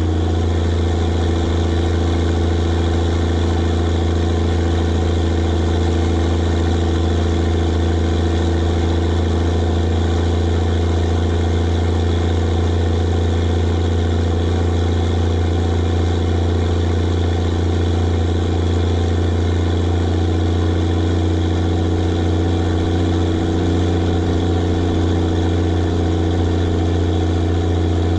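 Sisu M-162 truck's straight-piped Rolls-Royce diesel engine running at steady revs, a loud, even drone with no change in pitch.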